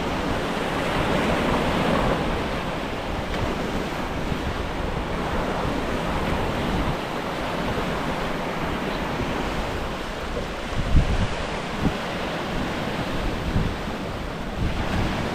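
Steady rush of wind on the microphone with surf washing behind it, and a few brief low buffets of wind on the mic in the latter half.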